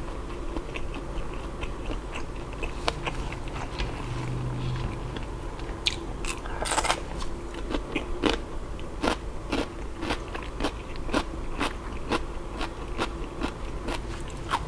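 Close-miked chewing of grilled mala-sauced food with the mouth closed: a steady run of wet clicks and smacks, with a short burst of crunching about seven seconds in.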